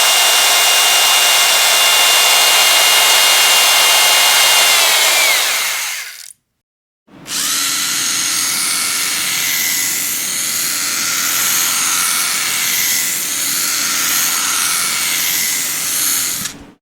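Electric power drill running with a steady high whine, its pitch dropping as it slows and cuts off about six seconds in. After a brief silence it starts again and runs steadily until it stops near the end.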